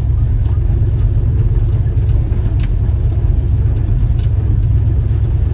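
Old Jeep's engine running slowly in granny low as it crawls a rocky trail, heard from inside the cab as a steady low rumble. Occasional light clicks and rattles come through it.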